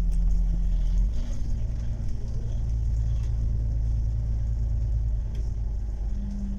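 Electric commuter train running, a heavy low rumble with a steady motor hum whose pitch dips and comes back up about a second in.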